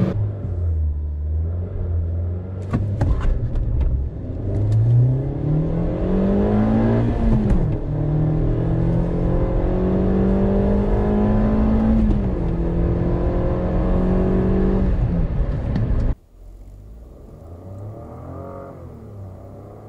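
Suzuki Swift Sport's 1.6-litre four-cylinder engine at full throttle, heard from inside the cabin. The revs climb steeply and fall back sharply twice, as at upshifts, with a few clicks about three seconds in. Near the end a much quieter 2017 Suzuki Swift 1.0-litre three-cylinder engine takes over as that car pulls away.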